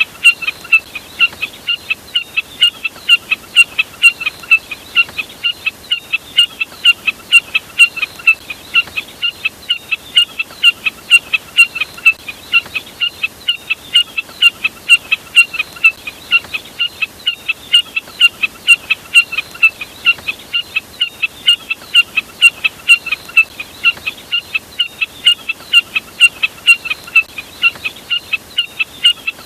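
Burcet, labelled jack snipe, calling over and over: short, sharp, high chirps repeated about three times a second without a break, from a recording used as a lure call for trapping.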